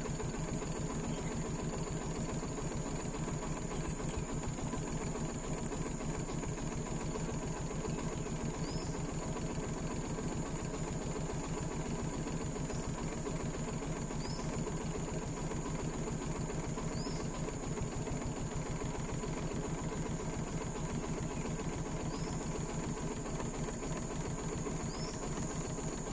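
A steady, rapidly pulsing low hum like an idling engine or motor runs throughout at an even level, under a constant thin high whine. Short faint chirps come every few seconds.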